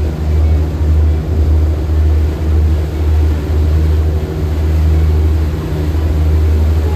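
Steady low engine rumble, with a weaker hum above it.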